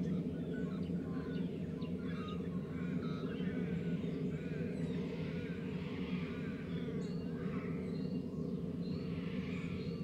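White-winged choughs giving many short, soft chirping calls over a steady low hum of background noise.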